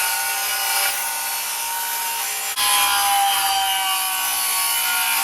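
Power saw cutting through wood: a loud, steady whine of the blade in the wood, with a brief dip about two and a half seconds in.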